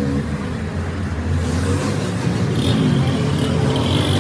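An engine or motor running steadily, with hissing and some clattering joining in about a second and a half in.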